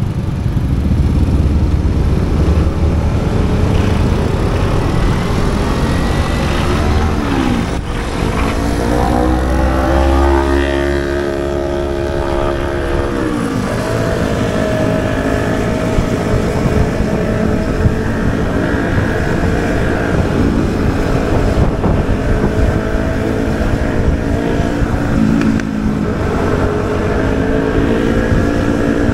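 Motorbike scooter engine running while riding, with wind rumble on the microphone. The engine pitch climbs as it speeds up about a quarter of the way in, drops sharply near the middle, then holds steady.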